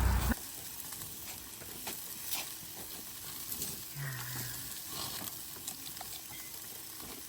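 Meat sizzling over a wood fire, a steady hiss with scattered pops and crackles.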